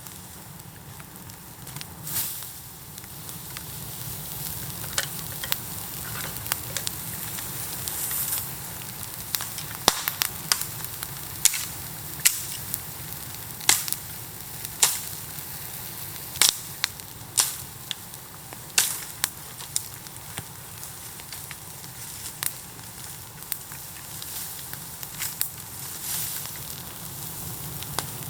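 Bamboo bonfire burning with a steady hiss and irregular sharp pops and cracks.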